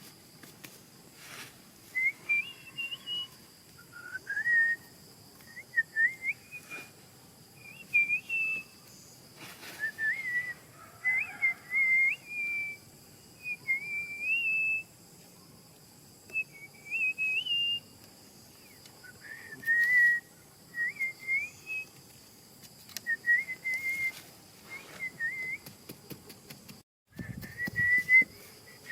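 A series of short, clear whistled notes at a fairly high pitch, each wavering or sliding upward, repeated every second or two, with a few faint clicks between them.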